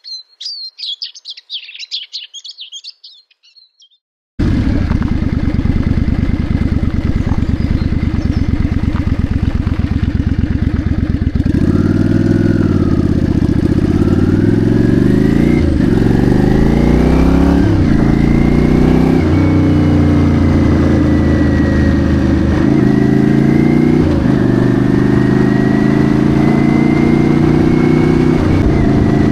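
Birds chirping for about four seconds, then a sudden cut to a Yamaha Virago bobber's V-twin engine running loud and steady. From about eleven seconds in it accelerates through the gears, its note rising and dropping back at each change several times.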